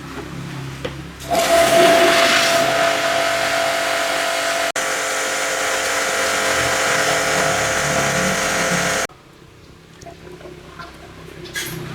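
High-pressure washer spraying: a loud rushing hiss of the water jet over a steady motor hum. It starts suddenly about a second in, breaks for an instant midway, and cuts off suddenly near the end.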